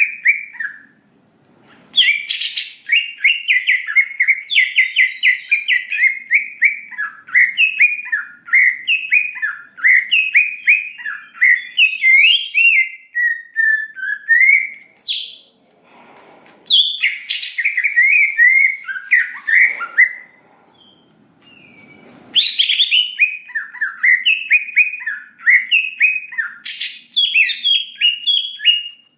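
Greater green leafbird singing in three long bursts of fast, varied chattering and whistled notes, with short pauses between. A few sharp, cracking notes ring out within the bursts.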